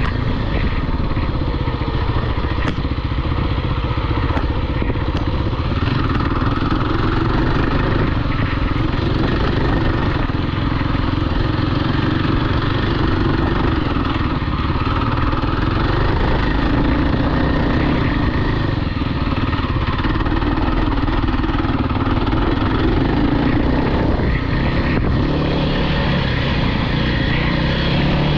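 Off-road vehicle engine running continuously under riding load, its revs rising and falling every few seconds.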